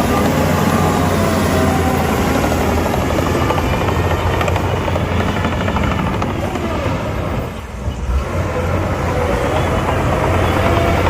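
Heavy diesel earthmoving machinery running under load, a steady low engine rumble that dips briefly about two-thirds of the way through.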